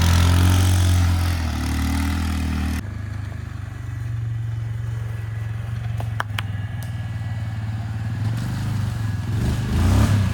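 A motor vehicle's engine running, with loud rushing noise over it for the first few seconds that drops off suddenly, leaving a steady low engine hum. There are a couple of sharp clicks about six seconds in.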